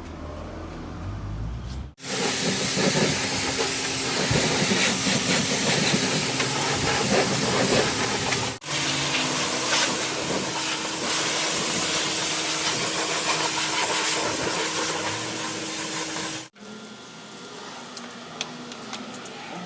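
High-pressure car wash spray wand blasting water: a loud, steady hiss with a faint hum beneath it. It starts suddenly about two seconds in, breaks off for an instant around the middle, and stops suddenly near the end.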